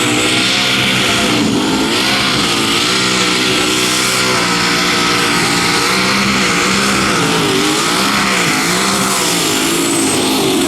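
Competition pulling tractor's engine running loud at high revs, its pitch rising and falling repeatedly through the pull.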